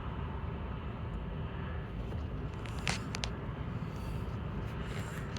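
Low, steady rumble of a car heard from inside the cabin, with a couple of brief clicks about three seconds in.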